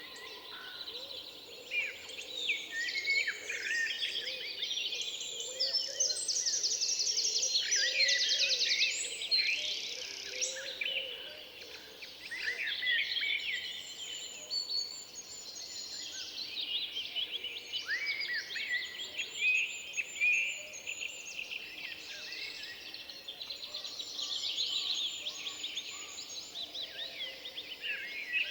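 Several songbirds singing at once in a dense, overlapping chorus of high chirps, whistles and trills, with one very rapid trill standing out a few seconds in.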